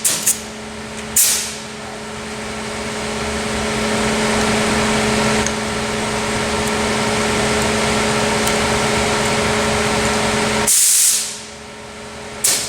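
Compressed-air paint spray gun hissing steadily as it sprays, over the steady hum of a fan. Short sharp bursts of air come near the start, a louder one about three-quarters of the way through, and one more near the end.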